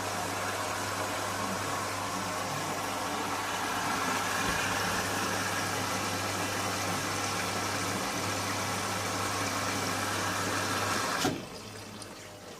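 Indesit My Time washing machine running early in a wash cycle: a steady rushing noise over a low hum, cutting off suddenly with a click near the end.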